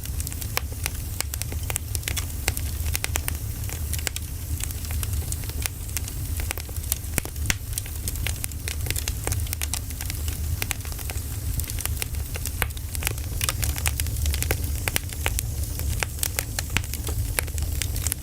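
Burning firewood crackling and popping: irregular sharp snaps over a steady low rumble.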